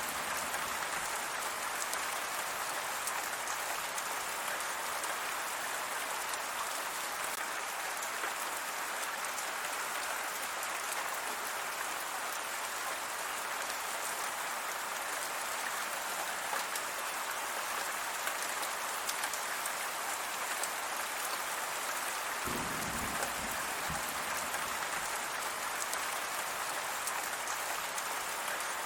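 Steady heavy rain falling on surfaces: a dense, even patter and hiss. A low rumble joins near the end.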